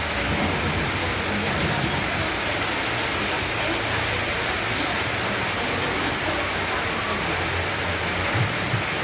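Heavy tropical downpour: rain falling hard and steadily, an even wash of noise with no breaks.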